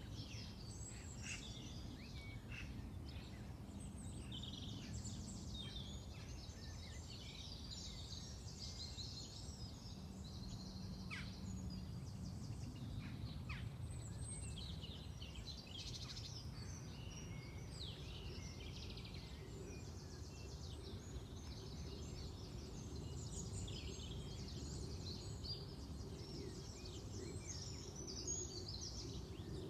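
Several birds singing at once, with many overlapping chirps and warbling phrases throughout, over a steady low background rumble.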